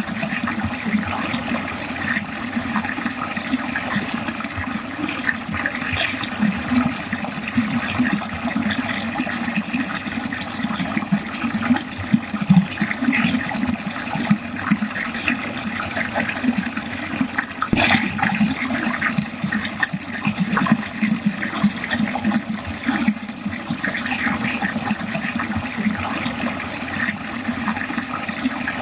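Water pouring steadily into a drain, gurgling and splashing with a continuous churning rush. A brief sharper splash comes about two-thirds of the way through.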